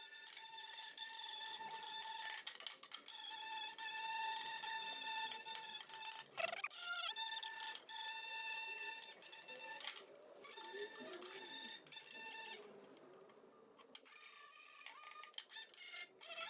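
A small high-speed power tool with a steady high-pitched whine, working old silicone gasket off the sump mating face to get a clean surface for a good seal. It stops and starts again several times, dipping and rising in pitch a little past midway.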